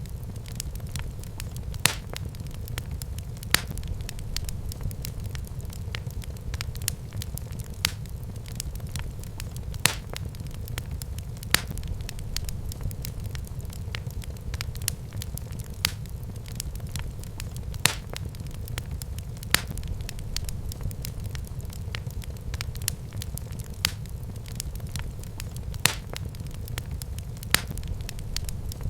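Wood fire burning in a fireplace: a steady low rumble of flames with constant fine crackling and sharp pops every second or two.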